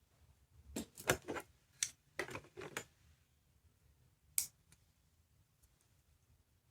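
Small plastic clicks and taps from handling a sound-making capsule toy: a quick run of clicks about a second in, then one more click a little past the middle.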